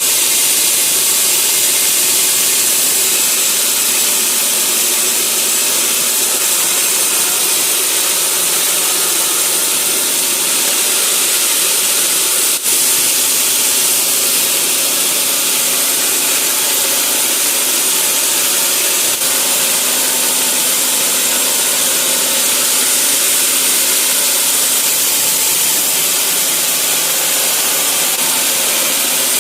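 Sawmill saw running steadily through a log, a loud, even, hissing whine of blade in wood, broken briefly twice.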